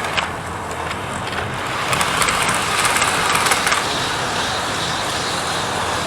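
Model railway trains running on the track: a steady rolling rattle of wheels and motors, with a run of light clicks about two to four seconds in.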